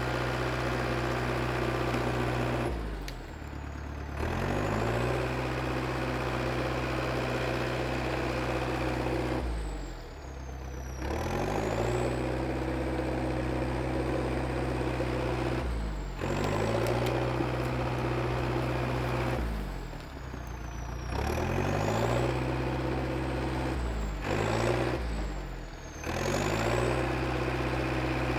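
IH TD8E crawler bulldozer's diesel engine running under work, its speed pulling down and recovering about six times as it takes and sheds load.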